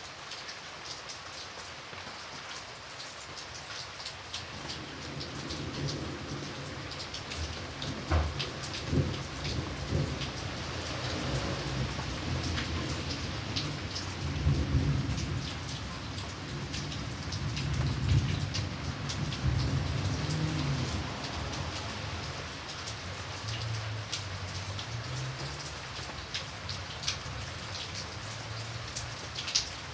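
Steady rain with sharp ticks of single drops hitting close by, and a long roll of thunder: it rumbles in about four seconds in, swells several times and fades out near the end.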